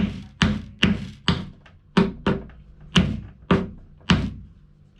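Hammer blows on wood while a shelf is being built: about nine sharp knocks at an uneven pace, roughly two a second, each dying away quickly.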